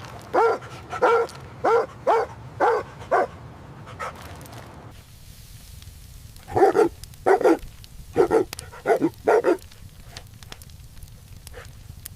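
A puppy barking: a quick run of about six short, high barks, a pause of a few seconds, then another run of about six.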